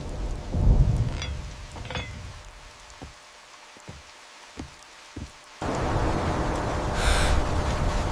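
Thunder rumbling low, swelling about a second in and fading away over the next two seconds. A near-quiet stretch with a few soft knocks follows, then a steady rushing hiss cuts in abruptly about five and a half seconds in.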